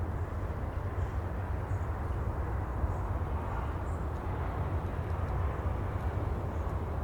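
Steady sea ambience: an even, low rumble of distant surf with no breaking waves standing out.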